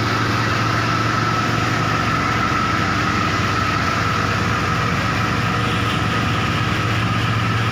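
Logging truck's engine running steadily, with a steady high whine on top of the low engine note.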